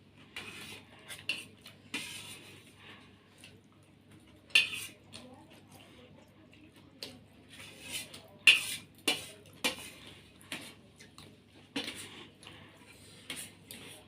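Spoons clinking and scraping against plates while eating, in irregular sharp knocks, the loudest about four and a half and eight and a half seconds in.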